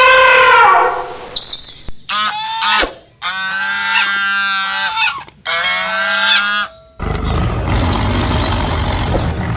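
A string of separate animal calls cut one after another: a held pitched call fading out, a quick falling high chirp, then three calls rich in overtones with short gaps between them. From about seven seconds in, a rough, noisy sound takes over.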